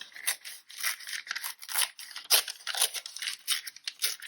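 Paper being handled at a craft table: a quick, irregular run of short dry crackles and rustles.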